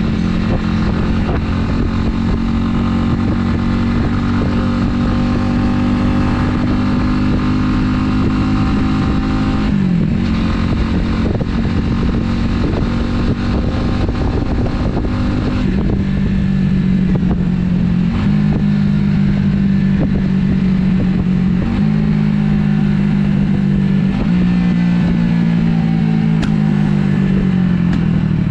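Italika 250Z motorcycle's single-cylinder four-stroke engine running under way, its pitch changing in steps several times as the rider shifts gears and varies the throttle, then falling near the end as it slows.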